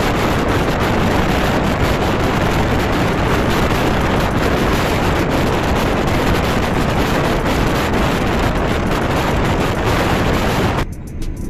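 Passenger train running at speed: a loud, steady rush of wheel-and-rail noise mixed with wind buffeting the microphone. It cuts off abruptly near the end, leaving a quieter low rumble.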